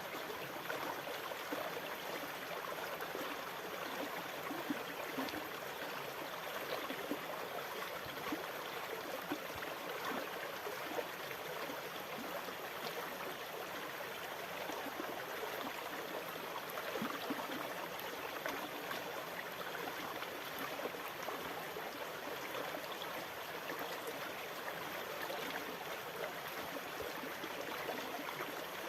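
Sea water washing and trickling, a steady watery hiss with small scattered crackles and splashes and no distinct breaking-wave swells.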